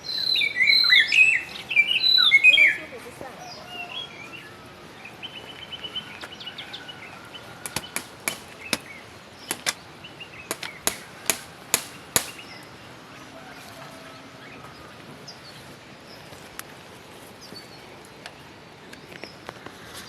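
Birds chirping loudly with quick, rapid notes for the first two to three seconds, with faint calls continuing after. From about 8 to 12 seconds in come about eight sharp chopping strikes of a garden tool.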